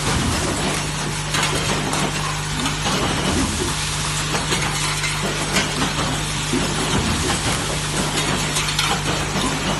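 Semi-automatic spot welding machine running: a dense hiss peppered with many small clicks over a steady low electrical hum.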